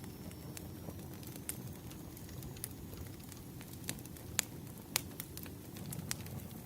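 Wood fire crackling: a steady low rumble with scattered, irregular sharp pops, two louder ones a little past the middle.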